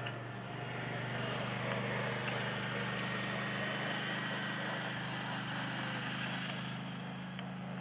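A steady low engine hum, running evenly, with a few faint ticks over it.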